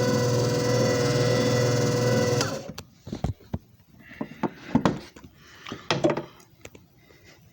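JFJ Easy Pro disc repair machine's motor running with a steady hum, which stops abruptly about two and a half seconds in. A scattered series of clicks and knocks follows.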